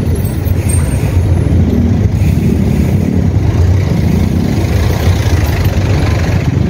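Road traffic heard from a moving bicycle: the engines of jeepneys, buses and vans crawling alongside, under a steady low rumble.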